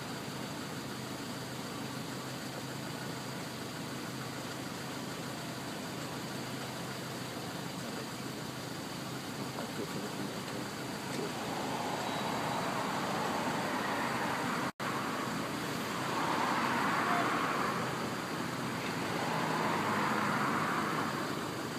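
Fire engine running with steady engine noise, then swelling louder three times in the second half as vehicle noise rises and falls. The sound cuts out for an instant partway through.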